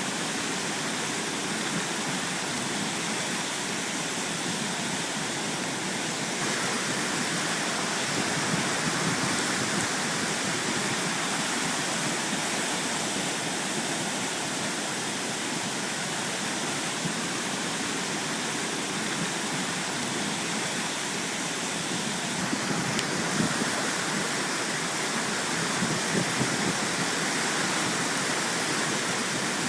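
A mountain brook in flood, its floodwater rushing in a steady, even torrent; the sound shifts slightly twice, about a fifth of the way in and again about three-quarters of the way through.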